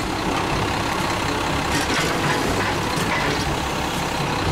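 Garbage truck's engine running steadily with a heavy low rumble and a noisy mechanical wash over it.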